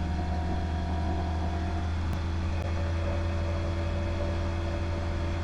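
Diamond DA20 light aircraft's piston engine and propeller at full take-off power during the take-off roll: a steady, even drone.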